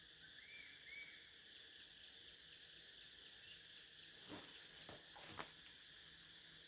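Faint outdoor background with a steady high hum, two short arched chirps near the start, then a few soft knocks about four to five and a half seconds in.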